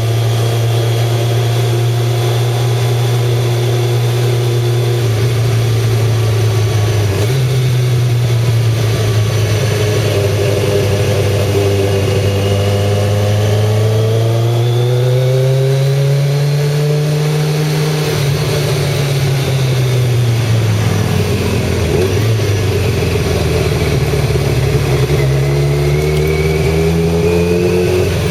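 Kawasaki ZZR1100's inline-four engine running under way. The engine note holds steady at first, climbs gradually over several seconds, drops away, and rises again near the end.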